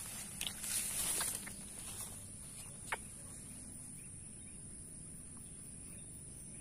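Insects droning steadily at a high pitch, with some rustling and a few sharp snaps in the first three seconds.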